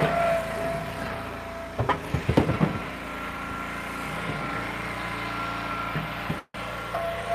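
Log splitter's engine running steadily with a whine that fades and returns. About two seconds in there is a cluster of sharp cracks and knocks from the wood. The sound cuts out for a moment near the end.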